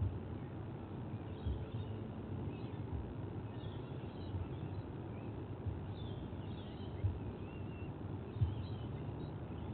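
Steady outdoor background noise with faint, high bird chirps scattered through, and a few dull low thumps.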